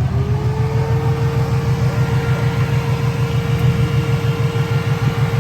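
Car engine idling with an even, rhythmic low pulse through quad exhaust tips. A steady mid-pitched tone comes in at the start and holds over it.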